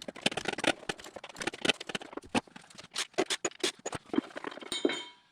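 Metal tools and parts clinking and clattering in quick, irregular knocks, with a piece of metal ringing briefly near the end.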